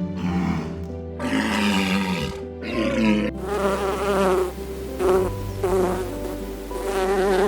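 Buzzing, like a flying insect, wavering in pitch and coming and going from about three seconds in, over background music.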